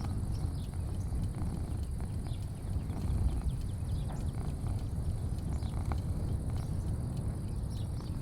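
Outdoor porch ambience: a steady low rumble under a thin, steady high hum, with scattered short chirps throughout.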